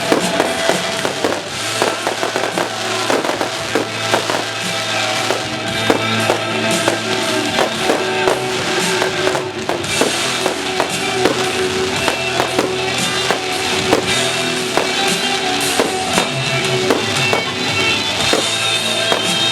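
Fireworks display with frequent sharp bangs and crackles of bursting shells, heard over steady music.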